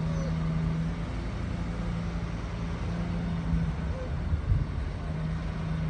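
Heavy diesel engine of earthmoving machinery running steadily with a low hum, with a couple of short knocks about three and a half and four and a half seconds in.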